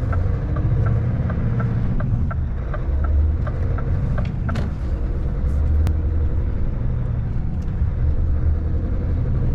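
Scania 770S 16-litre V8 truck engine running steadily on the road, heard from inside the cab as a low rumble. A quick regular ticking, about three a second, runs through the first three seconds.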